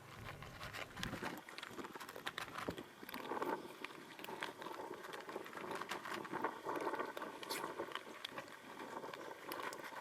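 Cats eating dry cat food: a busy run of small crunches and clicks, thickest in the middle of the stretch.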